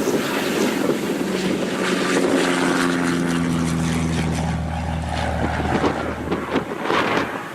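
Light aircraft's piston engine and propeller droning at takeoff power, its pitch edging down slightly before it fades near the end, with heavy wind rumble on the microphone.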